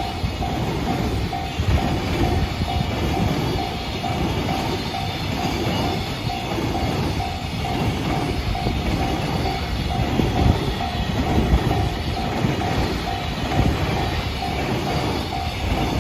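A train passes over a level crossing with a steady rumble and wheel clatter, while the crossing's warning bell rings in a regular, evenly spaced repeating ding.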